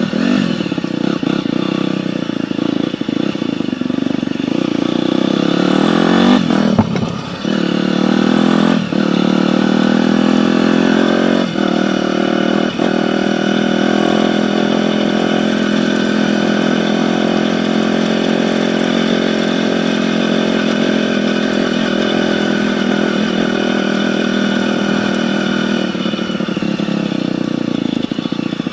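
Dirt bike engine running hard under load. Its pitch drops and climbs sharply about six seconds in and shifts briefly a few more times, as with gear changes or throttle blips, then holds a steady high note.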